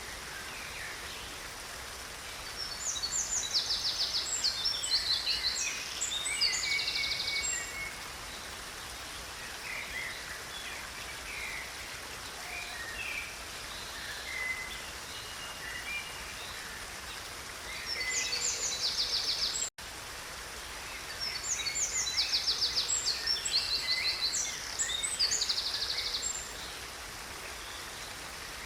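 A stream running with a steady rush of water, while songbirds sing in bursts of fast, trilled phrases several times over. The sound cuts out for an instant about two-thirds of the way in.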